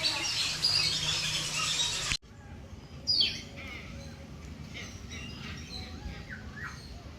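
Many birds chirping and calling together in a dense chorus, which changes abruptly about two seconds in to a few scattered calls, with one loud falling call a second later.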